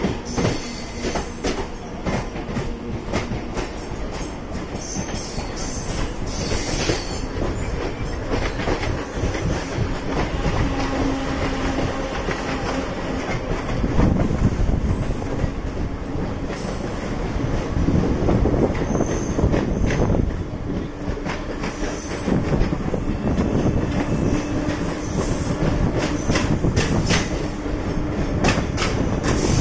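Mumbai suburban electric local trains running on parallel tracks: a steady rumble of steel wheels on rail, clicking over rail joints, with a few brief high wheel squeals.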